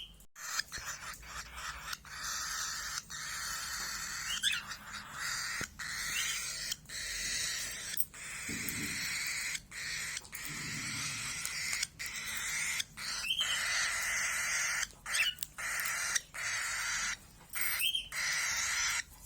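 Pet cage birds chirping and chattering continuously, with short sharp chirps standing out now and then, broken by many brief gaps.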